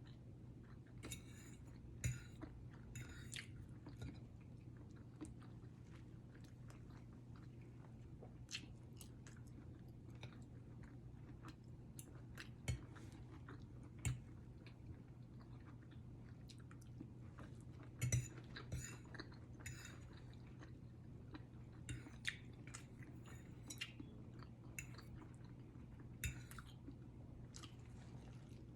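Close-up eating sounds: chewing and biting with soft crunches, and now and then a sharp click or clink of cutlery on a plate, over a low steady hum.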